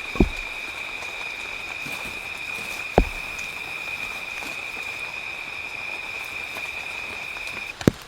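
A steady, high-pitched insect drone over a haze of forest noise, cutting off near the end. Two dull thuds break in, one just after the start and one about three seconds in.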